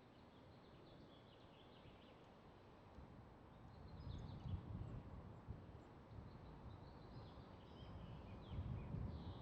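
Faint outdoor background ambience: scattered short high chirps over a low rumble that swells about four seconds in.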